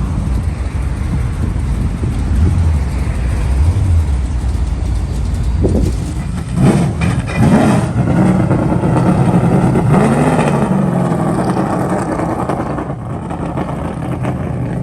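Car engine running with a steady low rumble, revved up and down several times in the middle.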